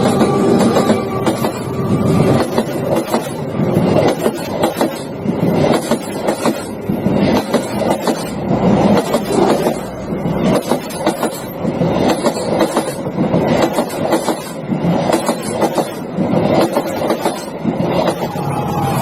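Train running along the track, its wheels clattering and knocking over the rail joints in a steady stream of irregular knocks.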